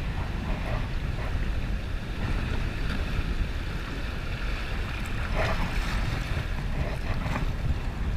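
Wind buffeting the camera microphone as a steady low rumble, over river water moving around a kayak on the water, with a few faint splashes about five seconds in.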